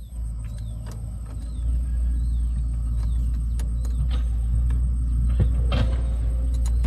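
Steady low mechanical rumble that grows louder about a second and a half in, with a few knocks and a sharp clatter near the end; faint falling chirps repeat about once a second above it.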